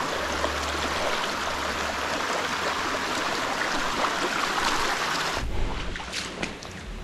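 Rushing stream water, a steady hiss of flowing water that drops away abruptly about five and a half seconds in, leaving a few small splashes and clicks.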